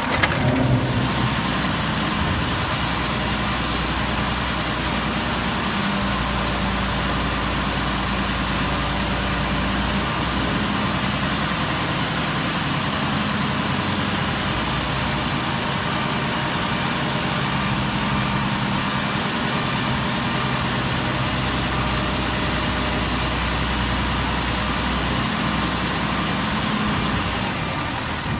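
Cummins ISM inline-six diesel engine of a 2007 Peterbilt 320 garbage truck running at idle, its low drone growing stronger twice for several seconds.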